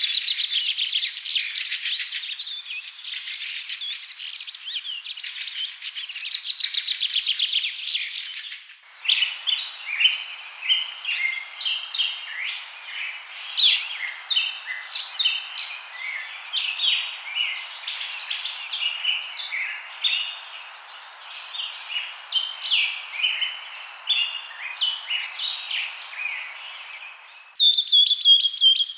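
Small songbirds chirping and trilling in quick, varied phrases, in three separate recordings joined by abrupt cuts: one about a third of the way in and another near the end.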